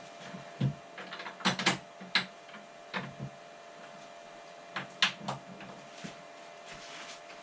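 Scattered clicks and knocks of snowblower handle parts and bolts being handled and fitted during assembly, the loudest a few sharp clacks about two seconds in and again about five seconds in, over a faint steady hum.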